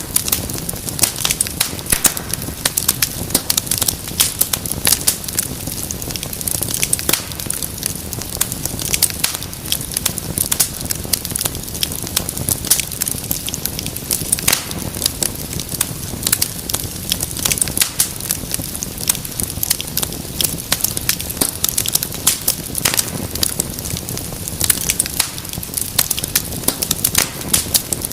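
Wood fire crackling: dense, irregular sharp pops and snaps over a steady low rumble and hiss of burning.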